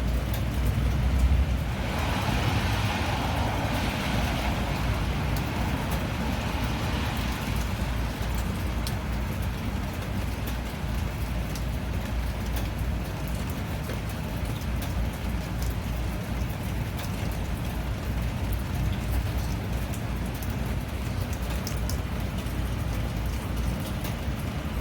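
Steady rain falling, over a constant low rumble. A louder hiss swells up about two seconds in and fades away by about eight seconds, and scattered drops tick throughout.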